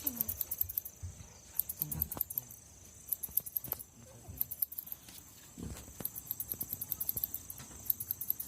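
Insects, crickets or cicadas, chirping: a steady high-pitched drone with repeated short trains of rapid high chirps every second or two.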